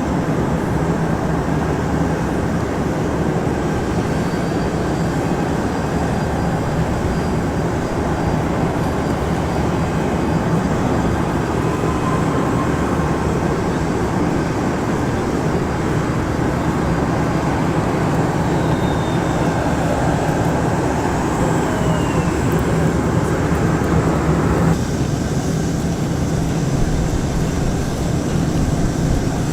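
Steady loud roar of a jet airliner's engines running, with a constant low hum under it. About five seconds before the end, the higher hiss drops away abruptly, leaving the low rumble.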